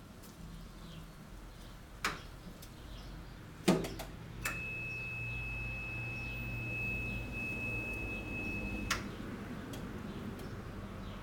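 Taylor Dunn 36-volt electric utility cart: a few sharp clicks, the loudest about four seconds in, then a steady high-pitched tone for about four and a half seconds over a low hum, cut off by another click.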